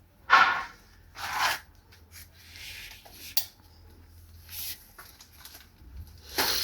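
Short rasping rubs, two in the first second and a half, with a sharp click a little over three seconds in and more brief rubs later.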